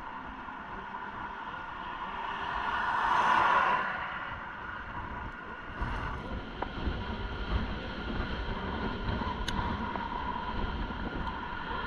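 Road noise heard from a moving electric bike. A vehicle passes with a swelling whoosh about three seconds in, and another comes near the end. Under them runs a steady whine, with wind buffeting the microphone from about halfway.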